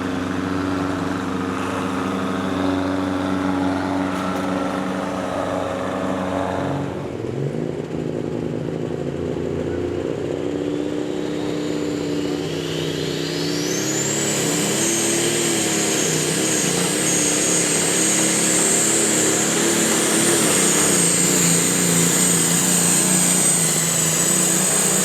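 Pulling vehicle's engine running hard through a pull run. A high whine rises about halfway through and then holds steady.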